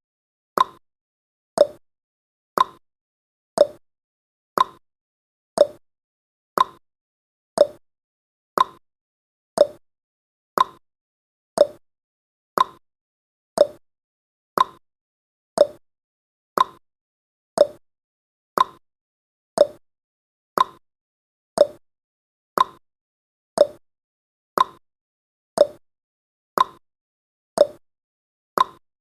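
A countdown timer's ticking sound effect: a short, sharp, clock-like tick once every second, keeping an even beat.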